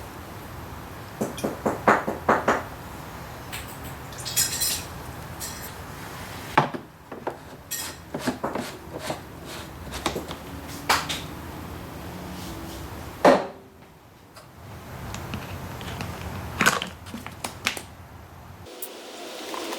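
Scattered clicks, knocks and short rattles of hand tools and metal parts being handled during motorcycle maintenance, over a steady low background noise that cuts off near the end.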